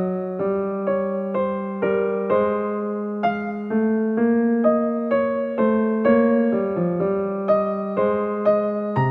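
Background music on an electric piano: chords struck about twice a second, each fading before the next.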